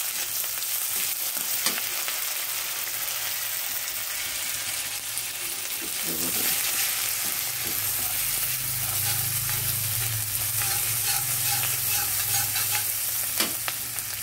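Chopped onion and ginger paste frying in hot oil in a metal kadai: a steady sizzle, with a metal spatula stirring and scraping against the pan and a few sharp knocks.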